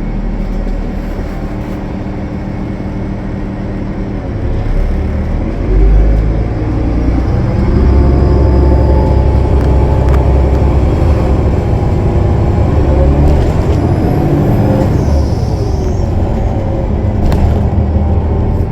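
Cummins ISL9 diesel engine of a 2015 Gillig Low Floor transit bus running under load; its pitch rises and it gets louder about five seconds in as the bus accelerates, then holds steady.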